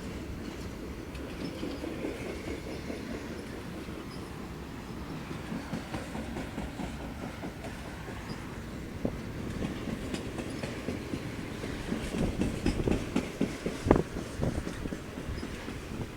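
Train rolling past with a steady low rumble of wheels on rail. Its wheels click and clack over rail joints, getting louder and more frequent in the second half.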